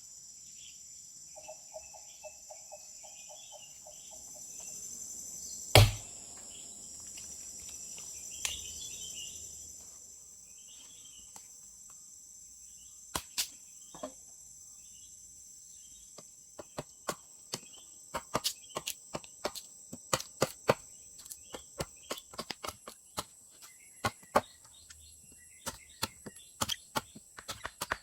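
Steady chorus of crickets or other insects, with faint bird chirps. A single loud knock comes about six seconds in, and from about halfway on there is a quick, irregular run of sharp knocks.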